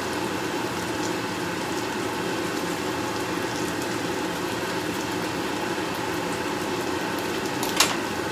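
Pieces of roast chicken sizzling steadily as they fry in a pan, with one sharp clack near the end.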